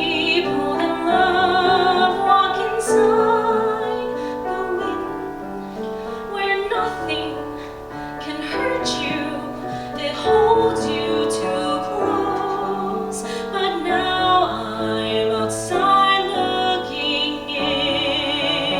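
A woman singing a musical-theatre ballad with piano accompaniment, with clear vibrato on her held notes.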